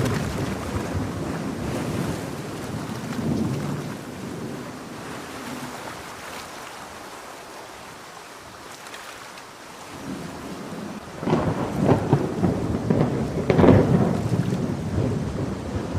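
Heavy rain falling steadily, with rolling thunder rumbling over it. The thunder eases to near the rain alone in the middle, then a louder rolling peal builds about two-thirds of the way in and peaks twice before fading.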